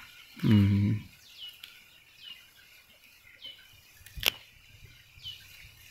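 A small bird calling again and again, short chirps that fall in pitch, about one a second. About half a second in a man gives a short low hum, and a sharp click sounds about four seconds in.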